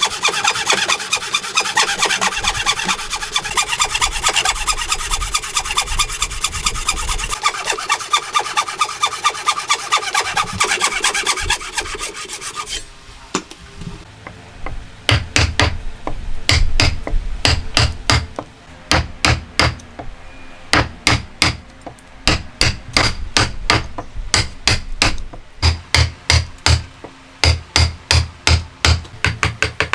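Hand woodworking: for about the first thirteen seconds, fast rasping strokes of a hand tool cutting into wood. After a brief lull, a long series of sharp, evenly spaced hammer strikes on wood, two or three a second in short runs.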